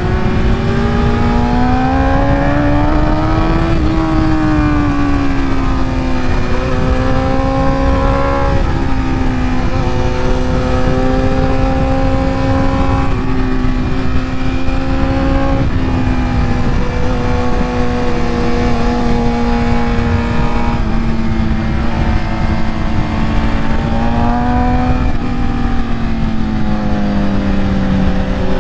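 Motorcycle engine running at fairly steady high revs while riding, its pitch rising and easing off a few times, over heavy wind rush on the microphone.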